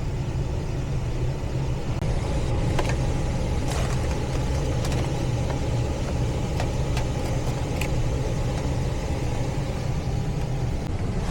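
Steady low hum of running HVAC equipment, with a few light clicks and taps scattered through it.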